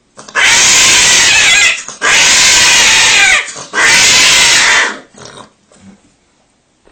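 An animal crying out three times in harsh, very loud squeals, each a little over a second long, with short gaps between them.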